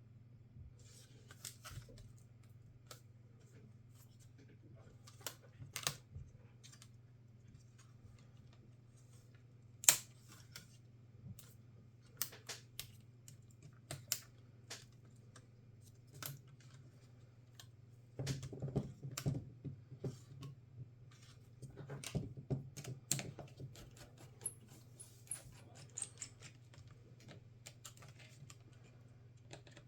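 Scattered small clicks and taps of tools and plastic and metal laptop parts being handled during a laptop teardown. One sharp click comes about a third of the way in, and two short bursts of rattling clicks come in the second half, over a faint steady hum.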